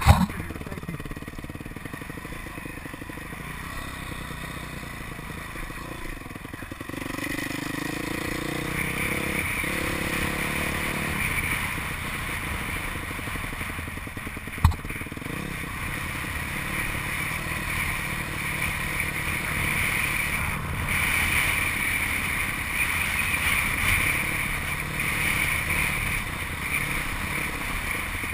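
Motocross dirt bike engine running as the bike is ridden, the revs rising and falling, with a sharp knock at the start and another about 15 seconds in.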